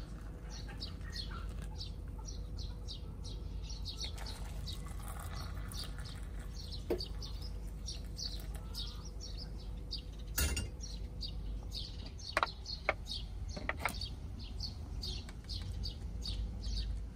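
Small birds chirping over and over, with a few sharp clinks of dishes or cups about midway.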